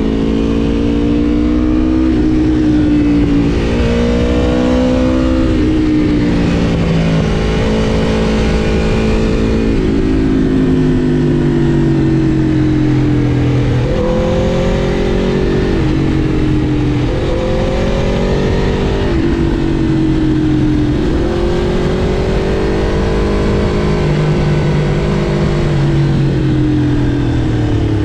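Aprilia RSV4 Factory's 1099 cc V4 engine accelerating under load, its note climbing and then dropping sharply at each gear change, several times over, with stretches of steady cruising between.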